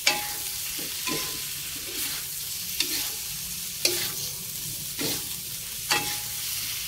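Sausage sticks frying in a sautéed chili, shallot and garlic paste, sizzling steadily, while a metal spatula stirs them. The spatula scrapes and knocks against the metal wok about five times, and some of the knocks are followed by a brief ring from the pan.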